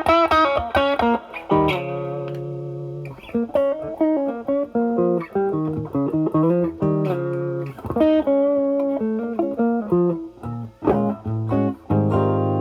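Electric guitar (Stratocaster with single-coil pickups) played through an Ibanez Tube Screamer Mini overdrive into a Marshall Valvestate amp on its drive channel, with the pedal's drive at zero. It plays a single-note blues-style lead with bends and held notes, and a chord struck near the end rings on.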